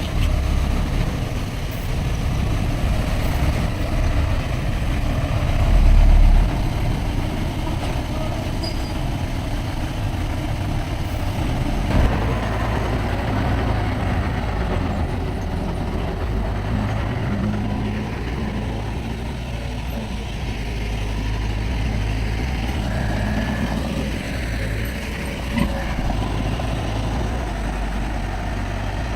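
Heavy diesel earthmoving machinery running steadily, its engine noise low and continuous. There is a louder low swell about six seconds in, and a sharp knock about twelve seconds in.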